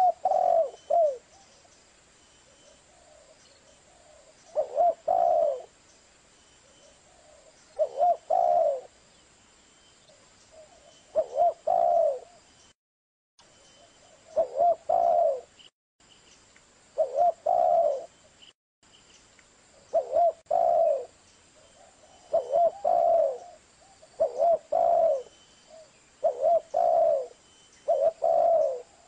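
Zebra dove (perkutut) cooing: short phrases of rolling, warbled coos repeated every two to three seconds, coming closer together toward the end.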